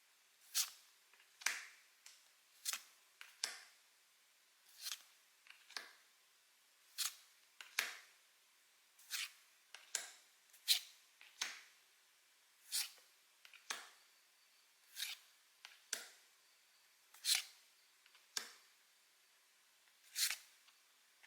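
Pokémon trading cards being flicked off a stack one at a time, each card giving a short, crisp snap, about one or two a second, often in close pairs.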